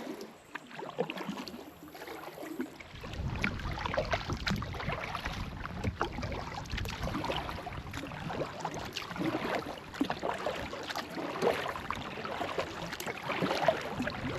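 Kayak paddle strokes splashing and dripping in the water, in repeated surges, over a low rumble of wind on the microphone that sets in a few seconds in.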